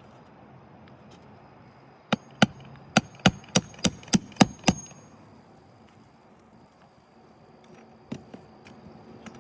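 Hand hammer striking about nine quick blows in a row, roughly three a second, with two lighter taps near the end.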